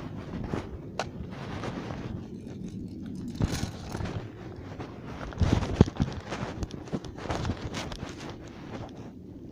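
Irregular knocks and rustling. The sharpest impacts cluster about five and a half seconds in.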